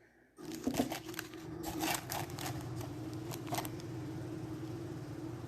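Clattering and knocking of things being handled and moved, a series of sharp clicks over the first few seconds, while a steady low mechanical hum switches on about half a second in and runs on.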